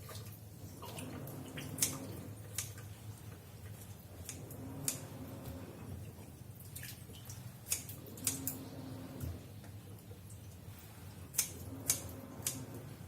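Raw shrimp being trimmed and peeled by hand: irregular sharp snips and clicks of kitchen scissors and shells, with wet handling in between.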